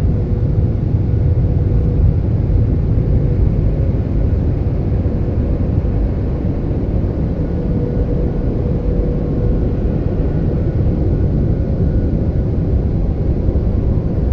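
Car wash air dryer blowing: a loud, steady rush of air with a faint even hum.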